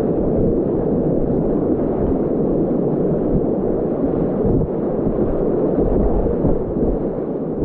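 Whitewater rapids rushing, a steady, loud wall of churning river noise.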